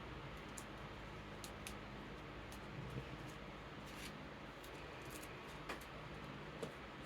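Faint, scattered clicks and rustles of playing cards being handled and slid into plastic card sleeves, over the steady hiss of an electric fan.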